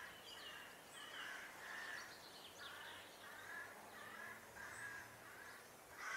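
Crows cawing over and over, faint, several harsh calls a second apart or less.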